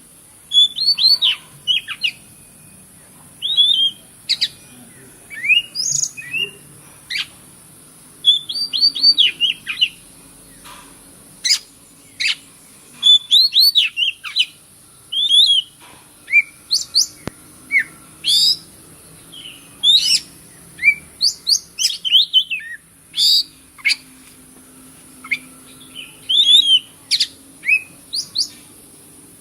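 Oriental magpie-robin (kacer) singing: a busy run of loud, varied whistled phrases with quick rising and falling sweeps, given in bursts with short pauses, over a steady high-pitched hiss.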